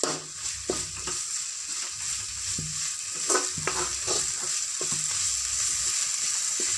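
Onions, green chillies, curry leaves and ginger-garlic paste frying in oil in a metal kadai with a steady sizzle, while a metal spatula stirs and scrapes against the pan in irregular knocks.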